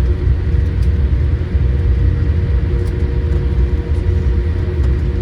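Boeing 787-8 heard from inside the cabin while rolling on the ground after landing: a steady low rumble from the wheels and idling engines, with a constant hum over it.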